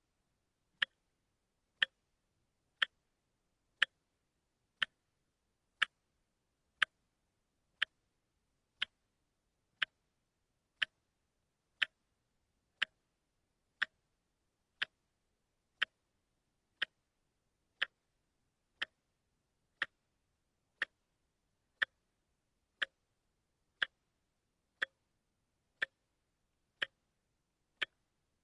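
Wristwatch ticking steadily once a second, sharp light clicks with silence between them: the one-step-per-second beat of a quartz watch's second hand.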